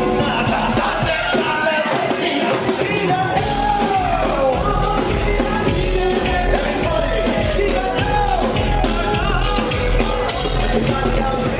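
Loud live pop music with a singer's voice over a steady beat; the heavy bass drum comes in about three seconds in.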